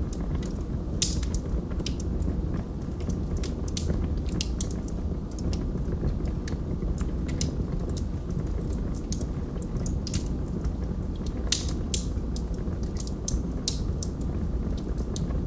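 Wood fire burning in a fireplace: a steady low rumble of flame with frequent irregular sharp crackles and pops from the logs.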